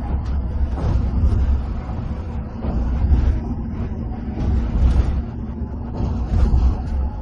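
Coach bus in motion heard from inside the cabin: a steady low engine and tyre rumble that swells and eases unevenly every second or so.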